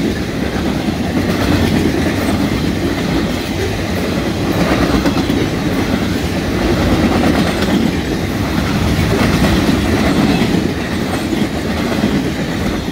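Railroad flatcars of a Norfolk Southern maintenance-of-way train rolling past on the track: a steady, loud rumble of steel wheels on rail that swells and eases every couple of seconds as the cars go by.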